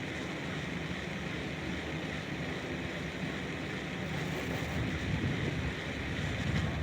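Steady ambient noise: a continuous low rumble under an even hiss, with no distinct events and only slight swells in level.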